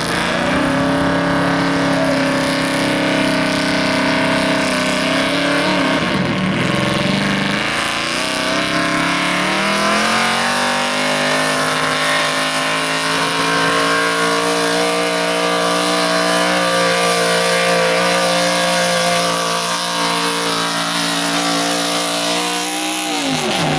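Pulling truck's engine running at full throttle under heavy load. The revs sag about six seconds in and climb back, stay high and steady for a long stretch, then drop sharply near the end as the throttle comes off.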